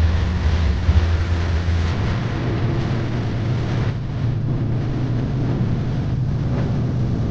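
An engine running with a steady low drone under a haze of noise; the hum steps up slightly in pitch about two seconds in.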